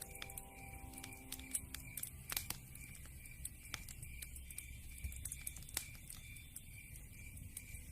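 Wood fire crackling, with irregular sharp pops and snaps over a low rumble of burning flames. Faint music fades out about two seconds in.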